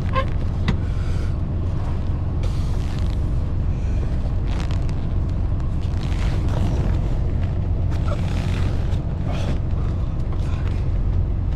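Engine idling steadily, a low constant drone, with scattered knocks, clicks and rustling from handling things nearby.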